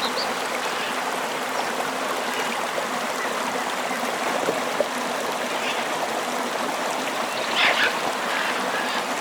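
A tropical river flowing steadily, a continuous even rush of water. A brief chirp sounds at the very start, and a short animal call rises above the water near the end.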